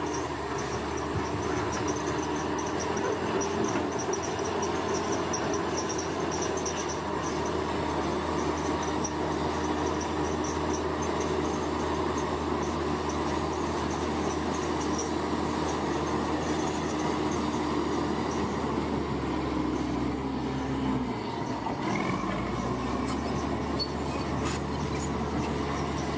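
Bulldozer's diesel engine running steadily under load, with a high chattering from the machine in the first part. Its note drops briefly near the end and then picks back up.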